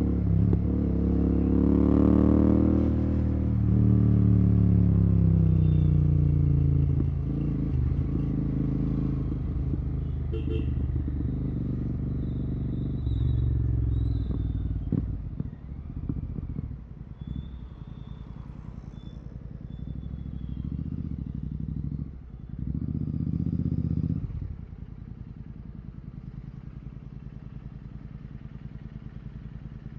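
Royal Enfield Continental GT 650's parallel-twin engine through a Red Rooster aftermarket exhaust with no dB killer. The revs rise briefly, then fall away over several seconds as the bike slows. It runs lower and quieter, gives a short burst of throttle a little over twenty seconds in, then settles to a steady low idle.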